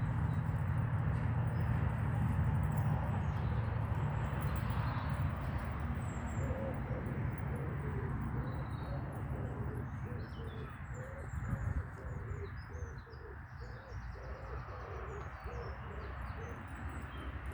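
A pigeon cooing: a run of short low notes repeated about twice a second, starting about a third of the way in and stopping near the end. Small birds chirp faintly over it, above a steady low rumble.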